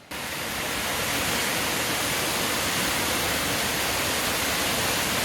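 Waterfall: a steady, loud rush of falling water that cuts in suddenly at the very start and holds even throughout.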